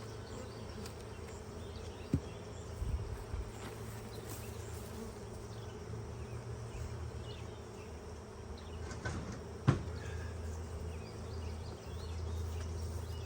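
Honeybee colony buzzing steadily in and around the hive, with a few short knocks, the loudest about ten seconds in.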